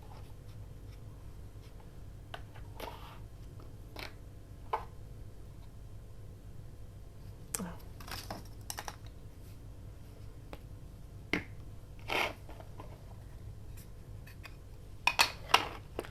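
Sparse light taps, clicks and short rubbing sounds of paper and craft supplies being handled, with a quick run of clicks near the end.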